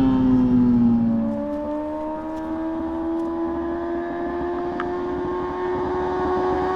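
2004 Yamaha R6 600 cc inline-four through an SP Engineering exhaust: its engine note falls away over the first second and a half, then climbs slowly and steadily as the revs build again.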